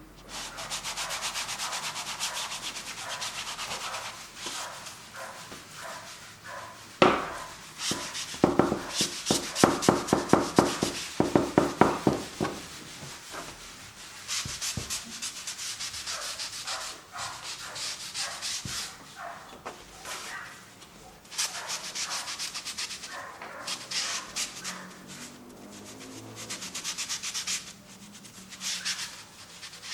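Acrylic paint being worked across a canvas: a continuous run of scratchy rubbing and scraping strokes. Near the middle come several seconds of quick, louder back-and-forth strokes.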